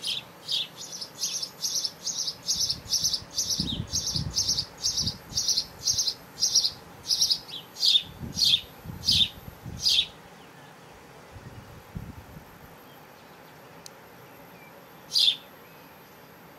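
A bird calling a rapid, even series of short, high, downward-sweeping chirps, about three a second, that stops about ten seconds in, followed by one more chirp near the end. A few low rumbles sound in between.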